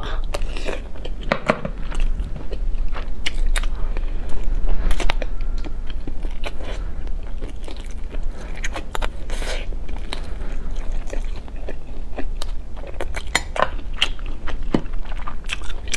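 Close-miked chewing and wet mouth smacks of a person eating mouthfuls of rice with beef sauce, with many short sharp clicks scattered throughout and a few spoon clinks against a glass bowl near the end. A steady low hum runs underneath.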